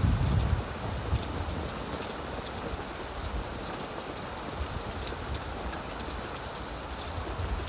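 Heavy rain falling on an old tin roof: a steady hiss with scattered sharp drop hits on the metal. A low rumble of thunder dies away in the first half second, and another starts near the end.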